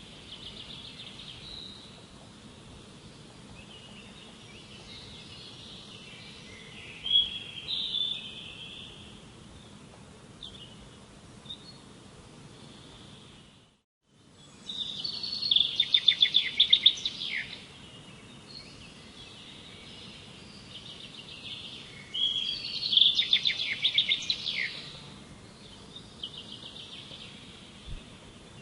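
A songbird singing in repeated phrases of high, rapid trills, the loudest bursts about halfway through and again near the end, over a steady background hiss. The sound drops out completely for a moment near the middle.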